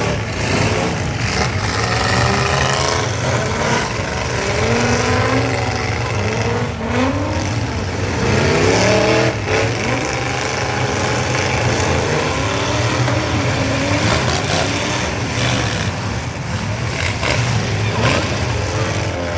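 Several big pickup-truck engines revving and running at once in a demolition derby, their pitch repeatedly rising and falling over a steady low rumble.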